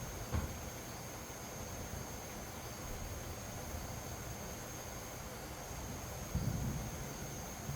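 Wind buffeting the microphone in low rumbles, with two stronger gusts, one just after the start and one near the end. A steady high insect trill runs behind it.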